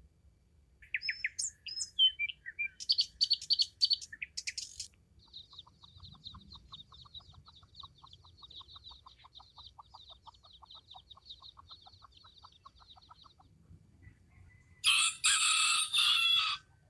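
Bird calls: a run of short high chirps over the first few seconds, then a fast pulsed trill lasting about eight seconds, then a loud harsh call near the end.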